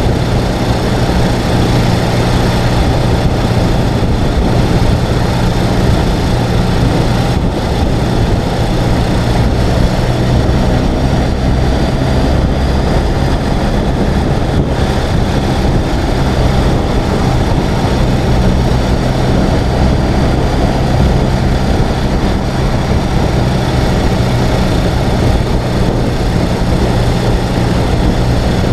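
Ural sidecar motorcycle's air-cooled boxer-twin engine running at a steady speed, its note holding one pitch throughout under a steady rush of noise.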